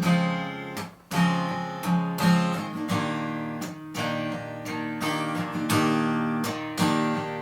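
Acoustic guitar strumming chords in a slow ballad rhythm, with a brief gap about a second in.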